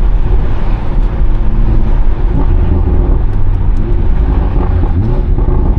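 BMW 340i's turbocharged straight-six, with catless downpipe and valved exhaust, running loud under way in Sport Plus mode, heard from inside the car; the engine note rises and falls several times in the second half.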